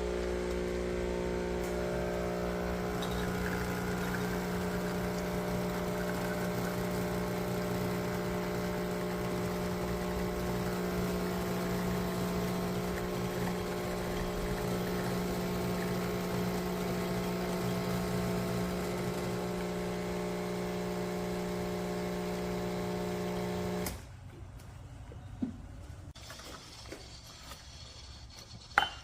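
CASABREWS espresso machine running with a steady mechanical hum, then switching off suddenly about 24 seconds in. A few light clinks of cup or metal follow near the end.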